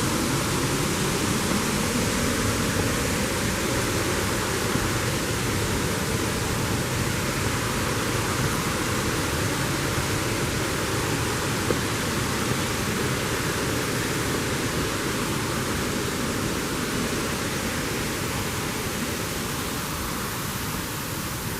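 Waterfall rushing: a steady, even wash of falling water, easing slightly toward the end.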